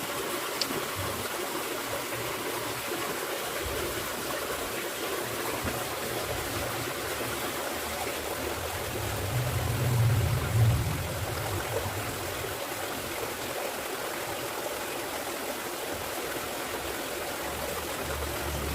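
Steady rushing noise like flowing water, with a low thud about ten seconds in.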